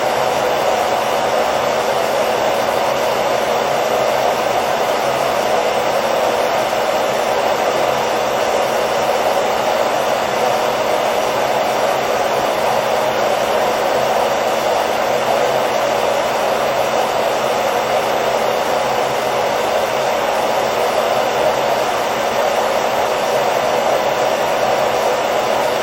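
Hair dryer running steadily: an even, unbroken whoosh of blown air with a faint motor hum.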